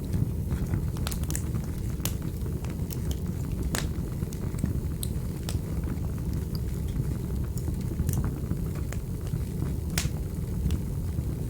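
Wood fire burning in a fireplace: a steady low rumble with sharp crackles and pops at irregular intervals.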